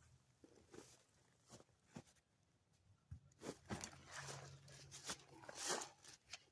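Faint, irregular crunching footsteps, growing thicker and louder about halfway through.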